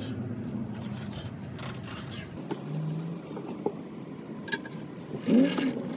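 A motor running steadily, which cuts off about two and a half seconds in, followed by light clicks and knocks.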